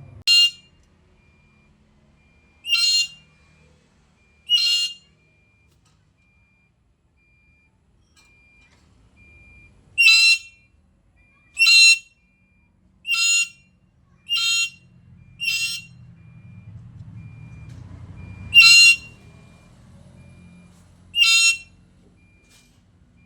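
Black-capped lory giving ten short, loud, high-pitched whistled calls at irregular spacing, with a pause of about five seconds after the first three.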